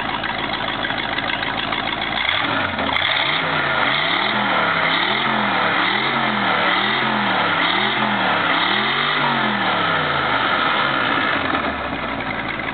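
Baja Force 220 boat's 350 Magnum V8 idling, then revved up and down about seven times in a row, roughly one blip a second, before dropping back to idle near the end. This is its first run after sitting for about three years.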